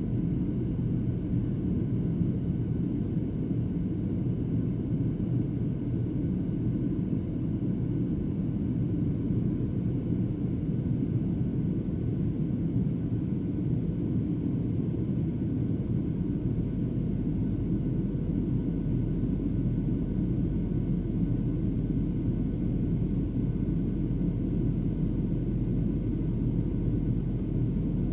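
Steady drone inside an airliner's passenger cabin in flight, a low, even rumble of engines and airflow.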